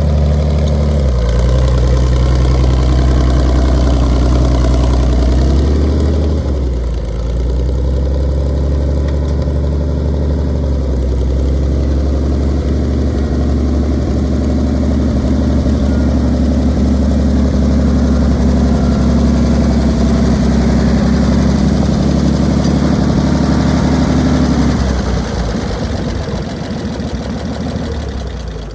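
1958 Farmall 560 gasoline tractor's six-cylinder engine running steadily. Its speed shifts about six seconds in, and near the end the steady note breaks up and fades away.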